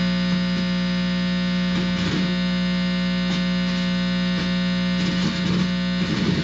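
Guitar amplifier buzzing loudly and steadily as the tip of a guitar cord touches the skin, with slight crackly wavering. The body is picking up mains hum, which the owner takes for a directed-energy attack.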